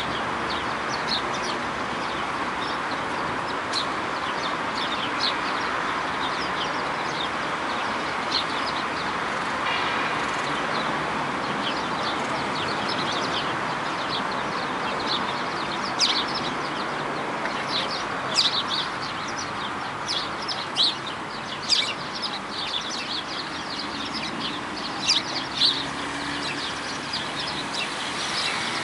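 Birds calling: many short, sharp chirps over a steady background murmur, with the chirps coming more often in the second half.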